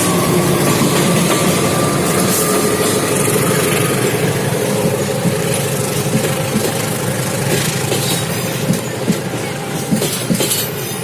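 A train passing close by with a loud steady rumble of wheels on rail. Sharp clicks from the rail joints become more distinct toward the end.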